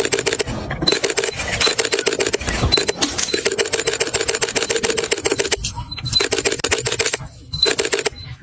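Rapid, dense clicking in runs of a few seconds that start and stop abruptly, three runs in all.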